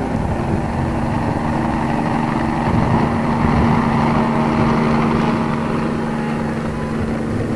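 Helicopter engine and rotor running in a steady drone with a constant hum, as a copter brings an artillery piece in.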